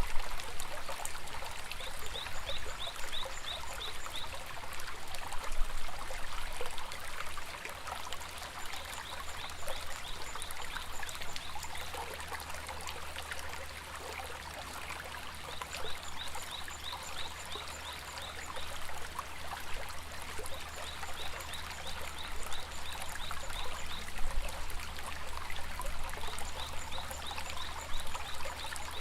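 Babbling stream flowing steadily. Over it, a small animal's call repeats every five seconds or so: a run of quick high pulses, about five a second, lasting a couple of seconds.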